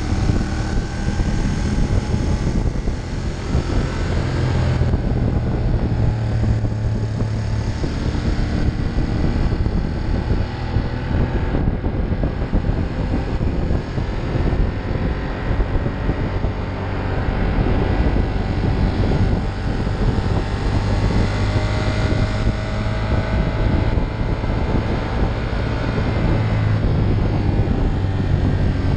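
Ducati Monster 1200's L-twin engine running at road speed, its pitch rising and falling with the throttle and gear changes, under a steady rush of wind over the microphone.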